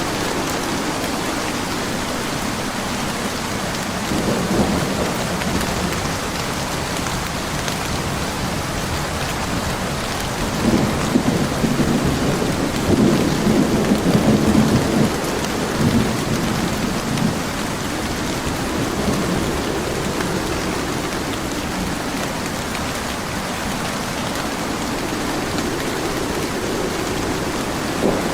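Steady heavy rain with thunder rumbling: a short rumble about four seconds in, and a longer, louder rolling rumble from about ten to seventeen seconds in.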